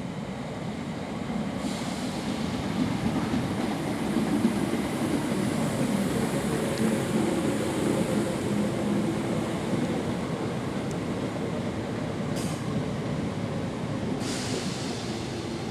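Electric multiple unit commuter train running slowly into the platform and coming to a stop: a steady rumble of wheels and motors with a faint tone in it. There is a short hiss near the end as it halts.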